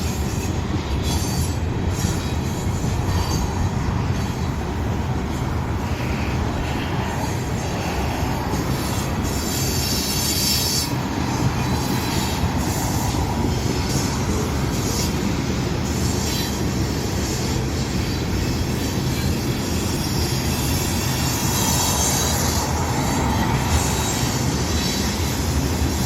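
A train rolling past on the rails: a steady, loud rumble of wheels and cars throughout, with brighter high-pitched passages about ten seconds in and again a little past twenty seconds.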